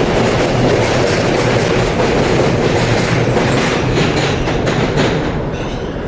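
New York City subway train running over the rail joints with a loud, continuous clickety-clack of wheel clicks, easing off near the end.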